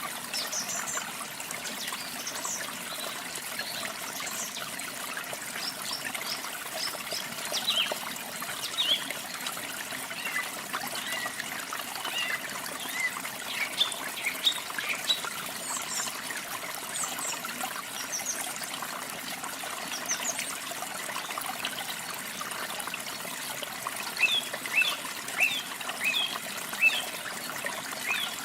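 Steady rush of falling and trickling water with many small birds chirping and singing over it in short, high notes, busiest in the middle and near the end.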